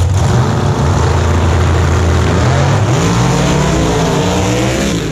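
Drag race car engine running loud and steady, then revving, with its pitch rising and falling from about three seconds in.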